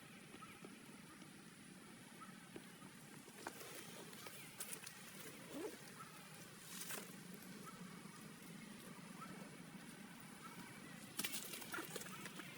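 Quiet outdoor background with a steady low hum and a few soft rustles and clicks scattered through, the loudest cluster about eleven seconds in.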